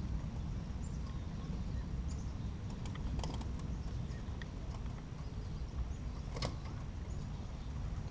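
Wind rumbling on the microphone, with scattered sharp clicks and a few faint, short chirps; the loudest click comes about six and a half seconds in.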